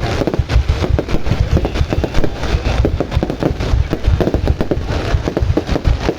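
Fireworks going off in a dense, continuous barrage of bangs, many a second with no pause.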